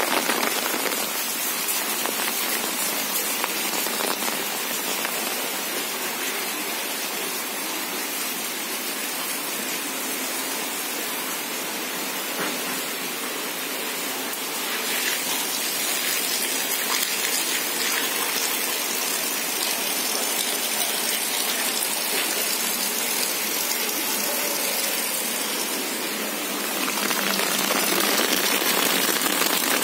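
Steady heavy rain falling on foliage and wet ground. Near the end it grows louder as a stream of runoff pours and splashes into a basin.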